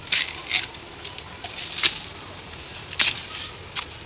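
Rustling with about five irregular sharp crackling snaps, from bamboo shoots being broken off and handled among dry stalks and leaves.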